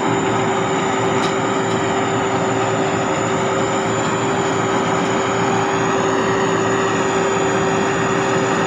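Sakpattana SS-300 combine harvester's turbocharged Hino J08C diesel engine running steadily, with a constant high turbo whistle over the engine's drone.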